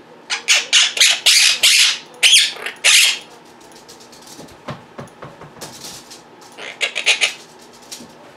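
Quaker parrots (monk parakeets) giving a rapid run of short, harsh squawks in the first three seconds, then a few more scattered squawks later on.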